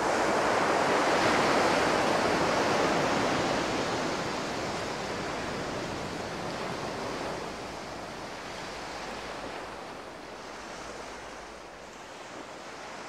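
A steady rushing noise, like surf, that comes in at the start and slowly fades away.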